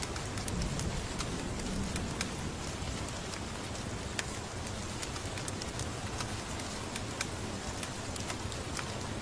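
Steady rain hiss, mixed with scattered sharp crackles and pops from a wood fire in a fireplace.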